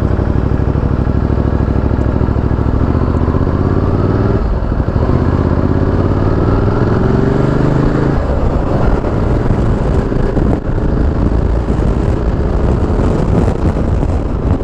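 Ducati Multistrada 1200S's V-twin engine under way, heard from the rider's helmet with the visor open. It holds a steady pitch, dips briefly about four seconds in, then climbs in pitch for several seconds as the bike accelerates, with wind rush over the microphone.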